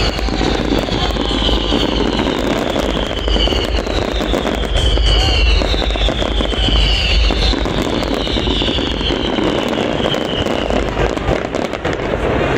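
Fireworks display going off: a dense run of crackles and bangs over low booms. A series of high whistles falls in pitch every second or two and stops near the end.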